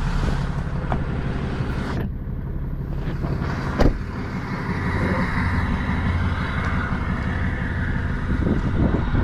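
Tow truck driving, its engine running with a steady low hum and a constant light rattle, and one sharp knock a little under four seconds in.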